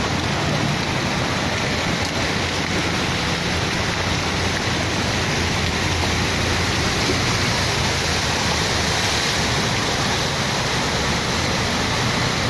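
Heavy rain falling steadily: a loud, even hiss of water.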